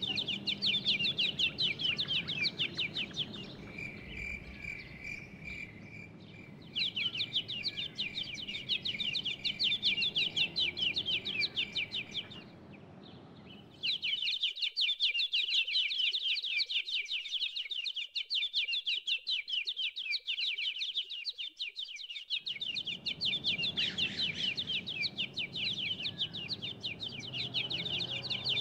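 Countryside nature ambience: a dense, rapid run of high chirping throughout, with a held high note for a few seconds early on and a low background rumble that drops out for about eight seconds midway.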